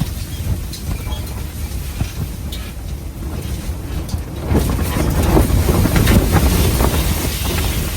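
Blizzard wind gusting and buffeting the microphone with a low rumble. A stronger gust builds about four and a half seconds in.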